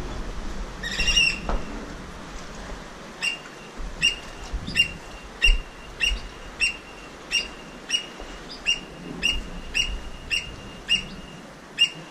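A bird calling over and over in sharp, piercing notes, about two a second, after a single call about a second in.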